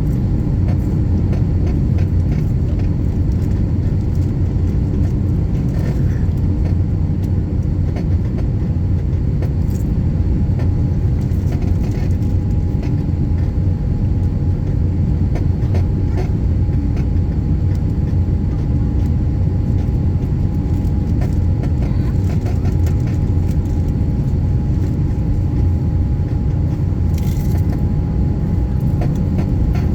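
Steady low rumble of cabin noise aboard an Airbus A350-900, with a faint steady whine and occasional light clicks and rattles.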